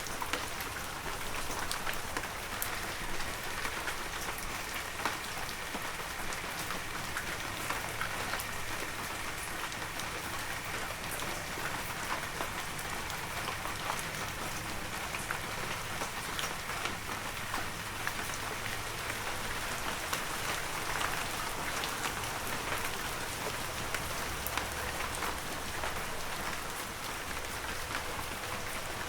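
Heavy rain falling steadily, an even hiss with many fine drop ticks throughout.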